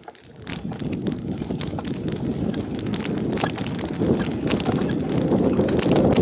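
Wind buffeting the microphone while riding a bicycle, with rapid irregular clicks and rattles from the bike, growing louder.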